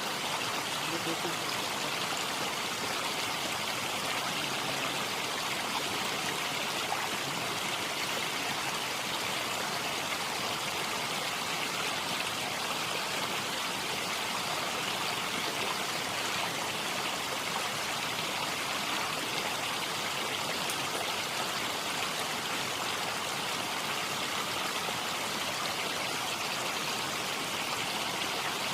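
A steady, unbroken rushing noise like running water, even in level throughout.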